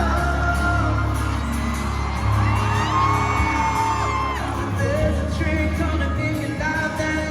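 Live pop band playing with singing over a steady bass line, with whoops from the crowd.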